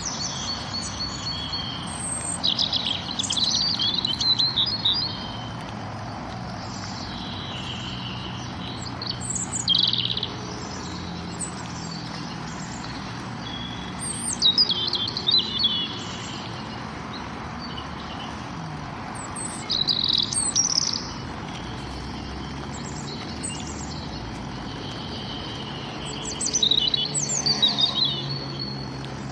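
Songbirds singing: short bursts of high chirps and trills every few seconds, over steady background noise.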